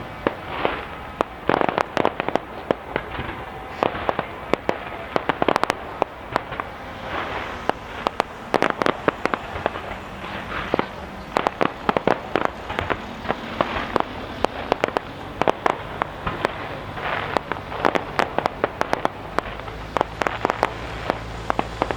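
Large display fireworks going off in quick, irregular succession: many sharp shell bursts and crackling reports, some in rapid clusters.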